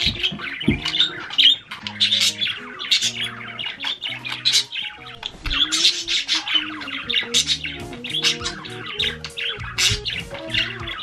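Several budgerigars calling together in rapid, overlapping short squawks and chirps, over background music with held notes.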